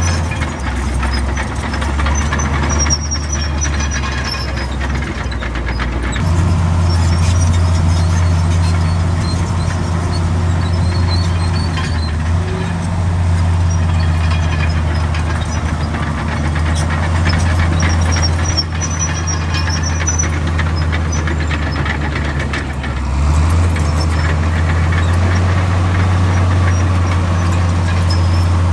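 Heavy diesel engine of a Komatsu D65 crawler bulldozer running steadily under load. It pulls harder about six seconds in and again near the end.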